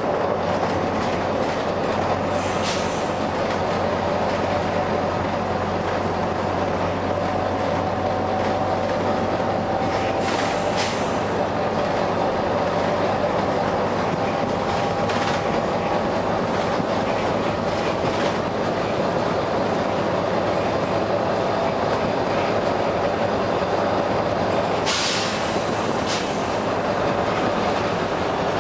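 Volvo B9TL double-decker bus running, with short bursts of compressed-air hiss from its air system about four times, the last one the longest.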